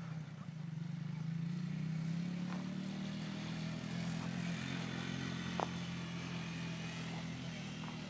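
1992 Suzuki QuadRunner 300 ATV engine running steadily as it is ridden around, its note rising slightly in the first couple of seconds and then holding.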